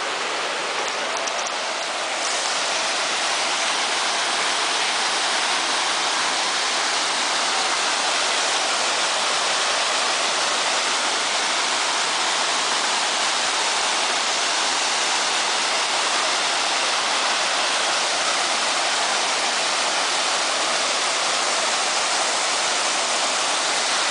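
Waterfall pouring steadily, a dense even rush of falling water that gets a little louder about two seconds in.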